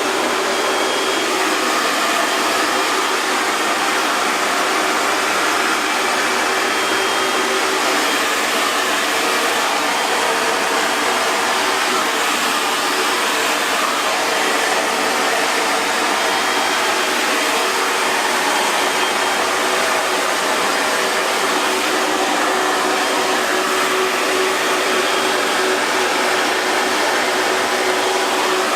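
Hair dryer running steadily: a constant airy rush of blowing air with a faint steady motor hum underneath.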